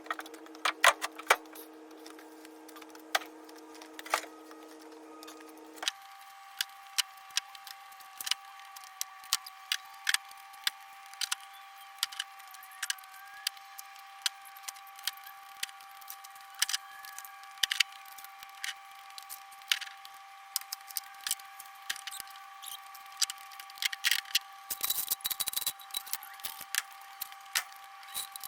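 Rubble being loaded by hand: irregular sharp clacks and clinks of broken pieces knocking together. Under them runs a steady hum that jumps higher in pitch about six seconds in.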